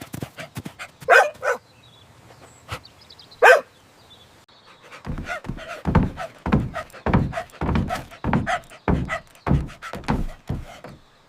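Cartoon golden retriever barking: two short barks about a second in and one more a couple of seconds later. These are followed by a run of regular low thumps, about two a second.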